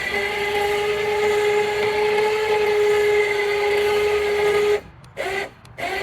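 Remote-controlled electric winch running with a steady whine as it winds in the cable under the load of a log being parbuckled up onto the sawmill. The whine stops suddenly near the end, followed by a couple of short bursts as the winch is jogged.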